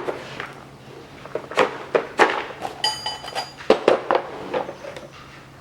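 Metal tools and parts handled on the bench: a series of sharp knocks and clinks, one ringing briefly like struck metal about three seconds in.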